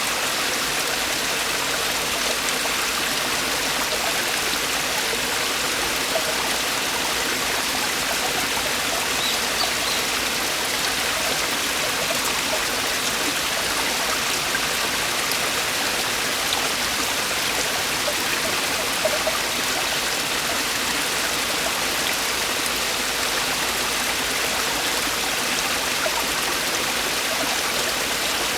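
Mountain stream water falling and splashing over rocks in a steady, continuous rush.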